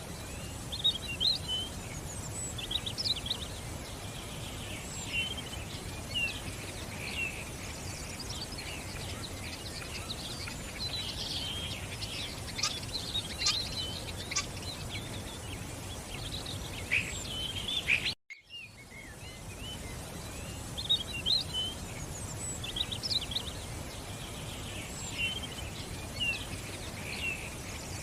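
Songbirds chirping and trilling over the steady rush of running water. The sound cuts out for a moment about 18 seconds in and the same stretch starts again.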